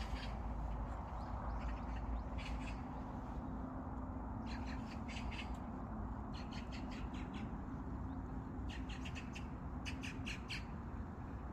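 Birds calling in quick runs of short notes, a run every second or two, over a steady low background hum.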